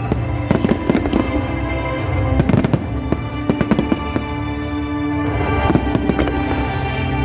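Aerial fireworks bursting in clusters of rapid bangs and crackles, over background music with held tones.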